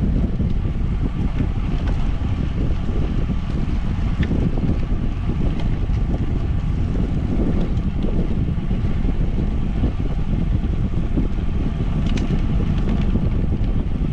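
Wind buffeting the microphone of a moving bicycle rider, a steady loud rumble with no let-up.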